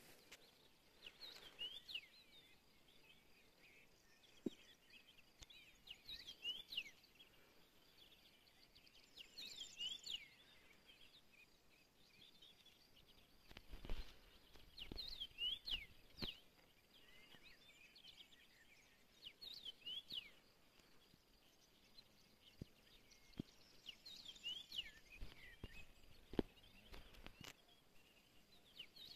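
Faint birdsong: short phrases of quick chirps repeating every few seconds. A few low thumps, the loudest about halfway through.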